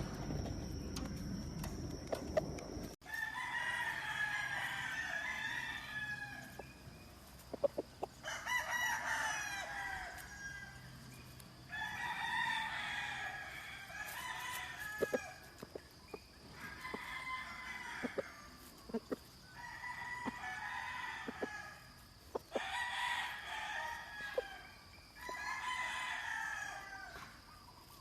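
Gamefowl roosters crowing again and again, about eight crows one after another every few seconds, with a few sharp clicks between them. A low rumbling noise fills the first three seconds and cuts off abruptly.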